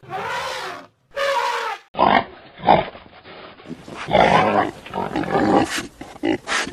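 Animal calls from several short recordings spliced one after another: two brief calls broken by sudden drops to silence, then a run of rough, repeated calls that cut in and out.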